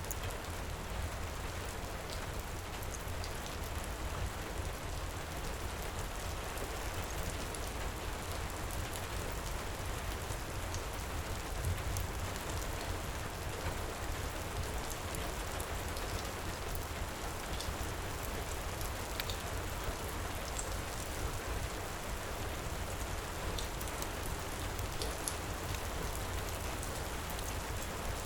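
Heavy rain pouring steadily over a low rumble, with scattered small crackles of a wood fire in a fireplace.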